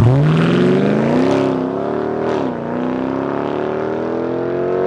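A high-performance car engine accelerating hard, loud and rising in pitch; the pitch dips once about two and a half seconds in, then climbs again.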